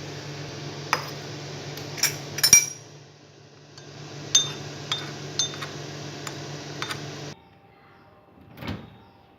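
Metal spoon clinking repeatedly against a glass while stirring cornflour into water, about eight sharp clinks over a steady low hum. The hum and clinking cut off abruptly near the end, followed by one short soft rush.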